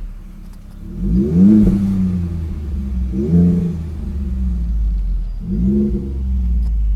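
2016 Ford F-150's 3.5 EcoBoost twin-turbo V6 running through a custom 3-inch stainless catback exhaust with pre-tire side exits, pulling away under acceleration. The engine note rises three times: about a second in, at about three seconds, and near six seconds.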